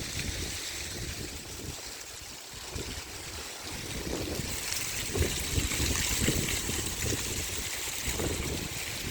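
Strong wind gusts rushing, swelling louder from about four seconds in, with irregular low rumbling from wind buffeting the microphone.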